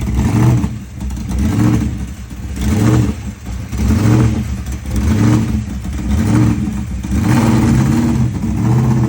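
A car engine revved in repeated throttle blips, about one a second, each rising and falling in pitch, with a longer rev held near the end.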